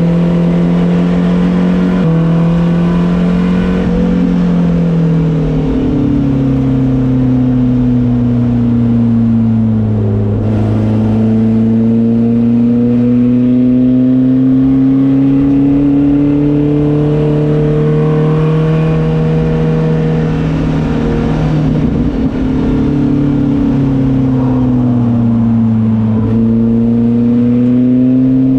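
A car engine running hard under load. Its pitch climbs and sags slowly, and drops suddenly about five seconds in and again about 22 seconds in, as with gear changes while lapping a track.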